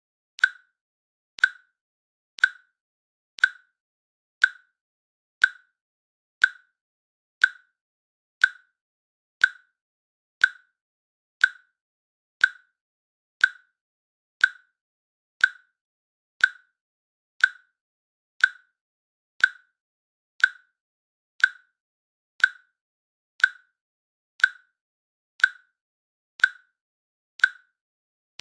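Countdown timer's click sound effect: one short, sharp click every second, evenly spaced, with silence between clicks.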